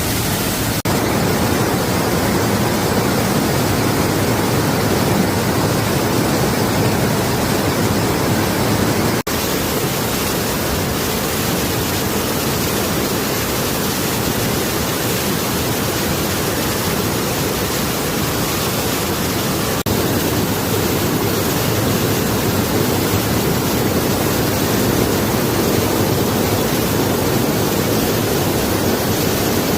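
Waterfall: falling water making a steady, loud rushing noise, broken for an instant by a few brief cuts.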